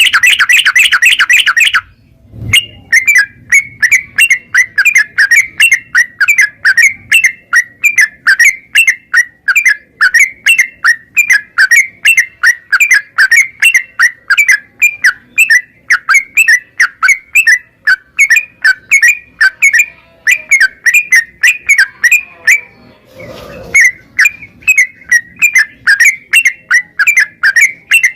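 Sooty-headed bulbul (trucukan) singing nonstop: a dense loud burst first, then quick sharp chattering notes at about three a second, the continuous 'ropel' song of a bird in full voice. A brief low rustle interrupts about 23 seconds in.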